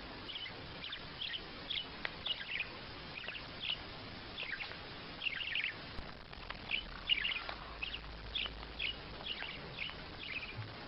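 A small bird chirping over and over: short high chirps, about two a second, with a few brief gaps.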